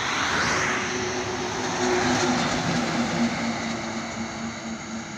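Truck passing on a highway: a steady engine hum under a broad rush of tyre and wind noise that swells early on, holds for a couple of seconds, then fades.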